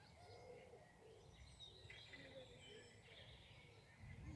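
Faint birdsong: small birds chirping and twittering in short phrases, with a few softer, lower calls, over a low steady background rumble.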